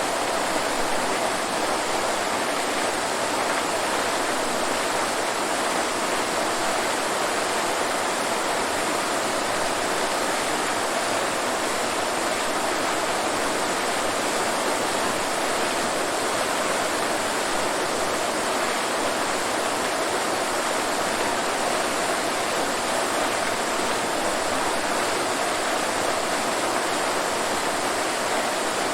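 Waterfall: falling water rushing steadily, an even hiss with little low rumble.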